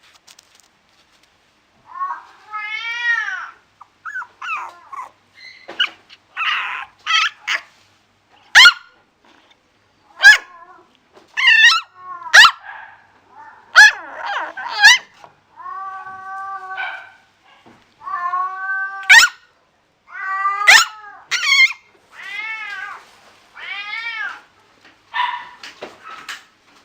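Puppies and kittens crying: a string of high-pitched mews and whines, some rising and falling in pitch and some held level, broken by short sharp yelps.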